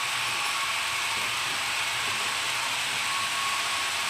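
HO-scale model trains running on the layout: the steady whirring of small locomotive motors and gears, with a faint steady whine.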